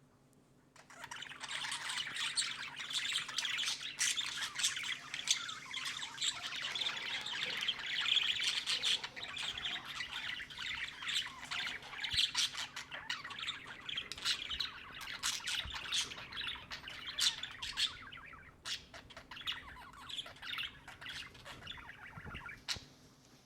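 Budgerigar chattering: a dense, fast run of chirps that starts about a second in and thins out over the last few seconds.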